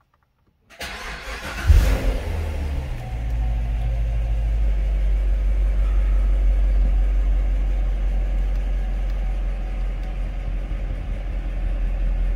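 2014 Corvette C7 Stingray's 6.2-litre LT1 V8 started up about a second in: the starter cranks, the engine catches with a brief flare of revs, then settles into a steady idle, heard from the driver's seat.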